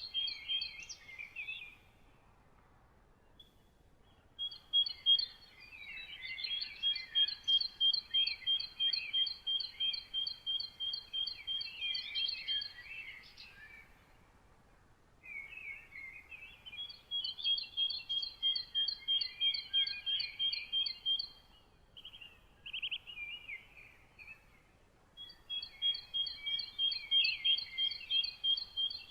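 Songbirds singing: long runs of evenly repeated high notes, about two a second, over quicker lower twittering. The phrases last several seconds each and are separated by short pauses.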